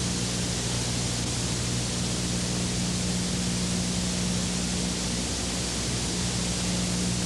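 Steady, even hiss with a low electrical hum underneath, unchanging throughout: recording noise of an old videotape transfer.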